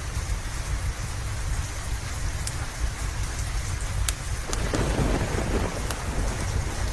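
Steady heavy rain with a low rumble of thunder that swells for a second or two around the middle. A few sharp crackles from a wood fire sound now and then.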